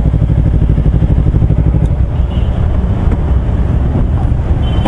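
Kawasaki Versys-X 250 parallel-twin engine running loudly through a Norifumi slip-on exhaust, a steady, evenly pulsing exhaust note.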